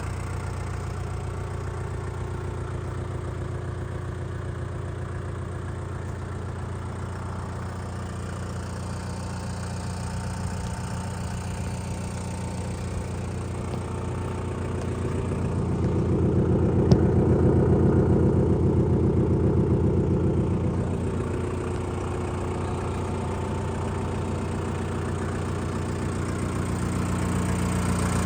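Shibaura SD3234 compact tractor's 32 hp four-cylinder diesel engine running steadily. It grows louder for about five seconds past the middle, then settles back to its earlier level.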